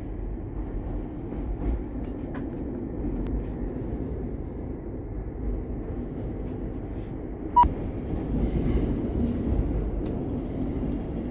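Steady low rumble of a moving passenger vehicle heard from inside, with a few faint clicks and one sharp click a little past the middle.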